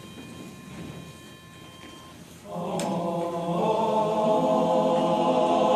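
A group of voices starts singing together, unaccompanied, about two and a half seconds in. They hold long, layered chords as the song opens; before that there is only quiet background.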